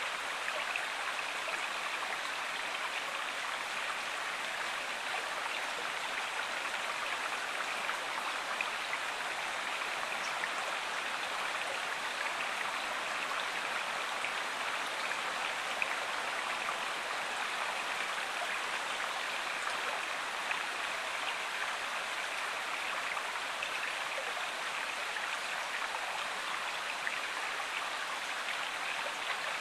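Flowing stream or river water: a steady, unbroken rush.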